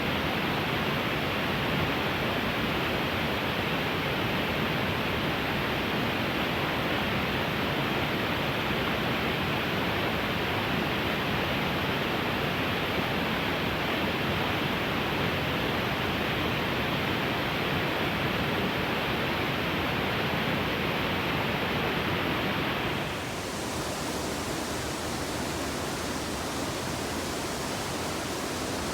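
River rapids rushing, a steady noise. About three-quarters of the way through it turns a little quieter and hissier.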